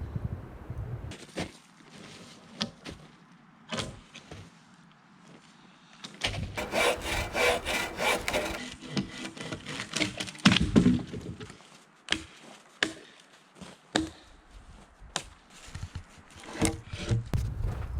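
Wood being worked by hand: scattered knocks of wood on wood, with a few seconds of rasping, sawing-like scraping in the middle and heavier knocks just after it.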